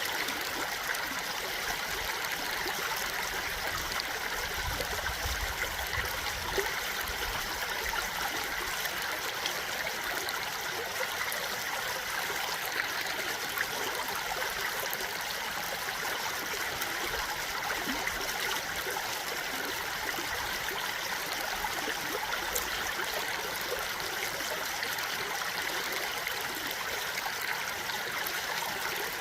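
A stream of running water flowing steadily, with an even rushing sound that does not change.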